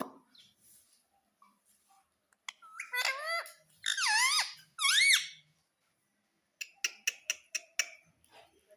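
Ringneck parrot giving three loud, squeaky calls that dip and then sweep upward in pitch, followed by a quick run of about seven short, sharp chirps.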